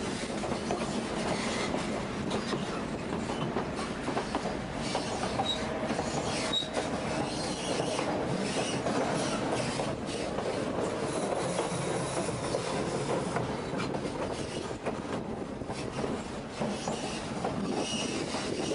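Narrow-gauge passenger train car running on the rails: a steady rumble and clatter of wheels on track, with two brief high squeaks about five and six seconds in.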